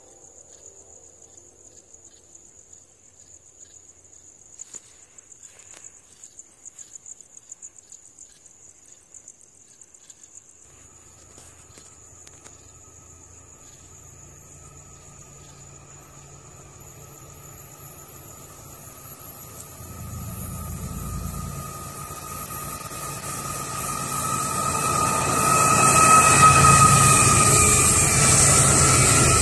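Crickets chirping, then a Florida East Coast freight train approaching from about ten seconds in. A low diesel locomotive rumble and a steady high whine build up until the train is passing loudly near the end.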